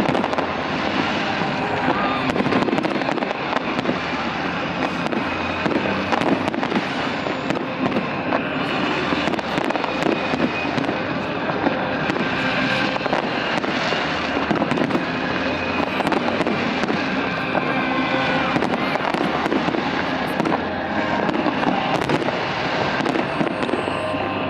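Fireworks display going off without a break: a dense, steady run of crackles and bangs.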